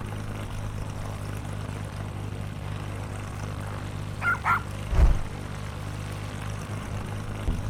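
A steady low hum, like an engine, with two short yelps like a dog's a little past the middle and a low thump just after.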